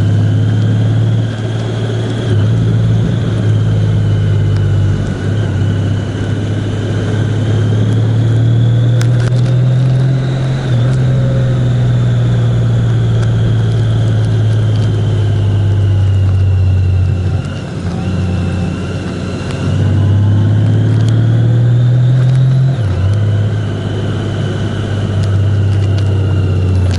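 Vehicle engine running under way, heard from on board, with road and wind noise; the engine note rises and falls with speed, dropping suddenly a couple of times.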